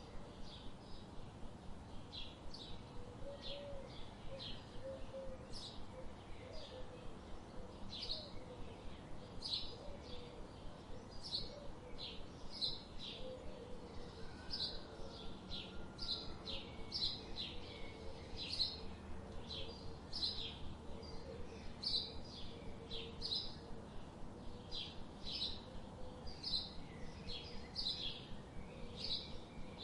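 Small birds chirping: a steady run of short, high chirps, two or three a second, over a soft background hush.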